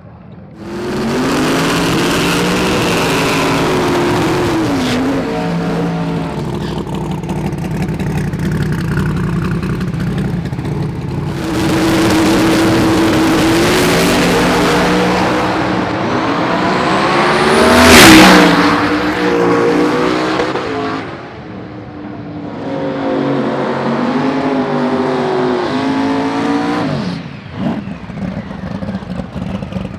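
Drag racing cars' engines revving and running hard in successive runs, the pitch climbing and dropping. The loudest moment comes about 18 seconds in as a car goes past close, its pitch swooping up then down. Near the end the engine noise cuts off sharply and irregular crackling pops follow.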